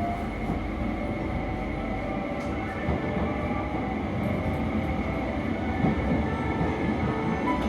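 Yakumo limited express train running along the line with a steady rumble of wheels on rail.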